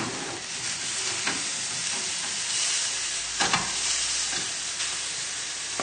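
Fish frying in hot oil, a steady sizzle, with a couple of light knocks, one about a second in and one about three and a half seconds in.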